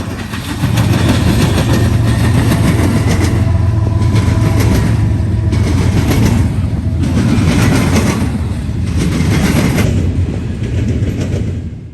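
Norfolk Southern intermodal freight train passing, a loud steady rumble of wheels on rail that cuts off abruptly near the end.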